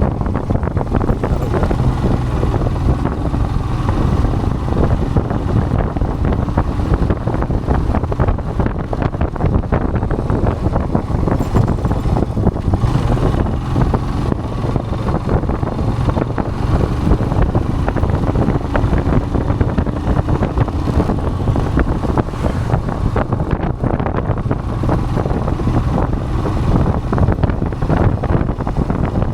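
Royal Enfield Himalayan's single-cylinder engine running steadily on the move, mixed with wind rushing over the microphone.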